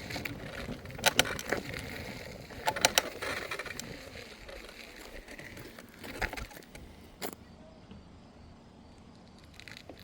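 Electric scooter rolling along, with short sharp rattles of its frame over bumps about a second in and again around three seconds, and single knocks near six and seven seconds; the rolling noise drops quieter after about four seconds.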